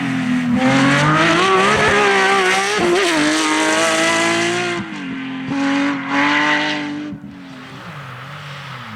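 Porsche 911 GT3 rally car's flat-six engine at full throttle, rising in pitch, dropping briefly about five seconds in, pulling hard again, then falling in pitch and getting quieter near the end as the car lifts off or moves away.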